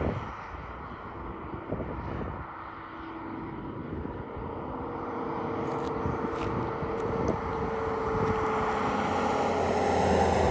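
Diesel-electric freight locomotives working hard on the grade, a steady rumble with a faint whine that grows louder as the train comes closer.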